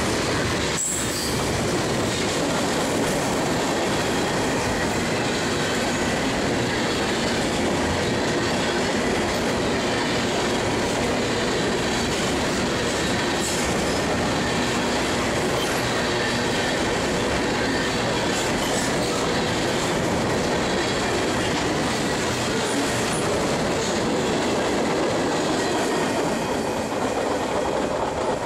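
Freight cars (tank cars and covered hoppers) rolling past close by: a steady, dense rumble of steel wheels on the rails, with a thin high wheel squeal running over it and a single sharp knock about a second in. It starts to tail off at the very end as the last car goes by.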